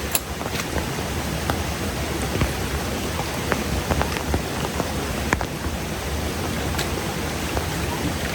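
Steady heavy rain, with scattered sharp drops ticking close by.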